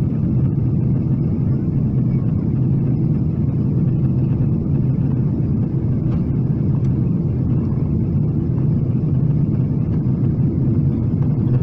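Steady low roar of airflow and engine noise inside the cabin of a Boeing 777-300ER in flight on descent.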